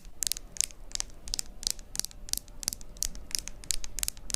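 Quick makeup application close to the microphone: a fast, uneven run of light, crisp taps and scratchy brushing from makeup tools, about five a second.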